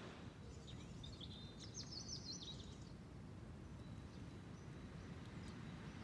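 A songbird sings one short phrase of rapid, high notes starting about half a second in and lasting about two seconds, over a faint low background rumble.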